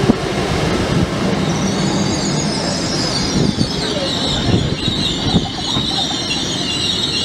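LNER Azuma high-speed train rolling slowly past the platform: steady wheel-on-rail rumble with a few clunks, and a high-pitched wheel squeal that comes in about a second and a half in and holds.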